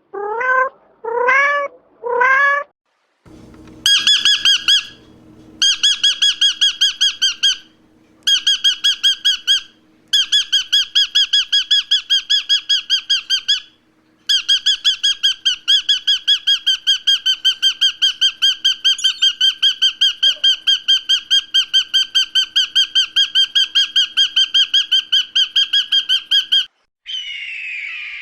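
A bird calling in long runs of fast, evenly repeated squawking notes at a steady pitch, with a few short breaks between runs. Three short rising calls come first, and a different, rougher call comes near the end.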